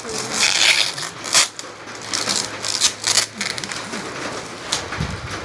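Packaging of a box being handled: a run of crinkling, crackling and sharp clicks, irregular and unevenly loud, with a low thud near the end.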